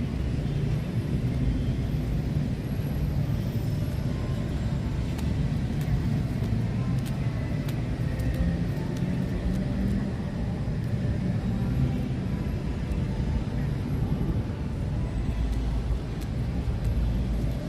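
Steady low rumble of road traffic, with no breaks and a few faint clicks over it.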